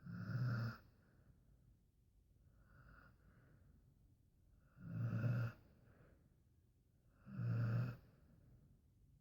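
Dog snoring in its sleep: three loud, buzzing snores about two and a half seconds apart, with a much fainter breath between the first two.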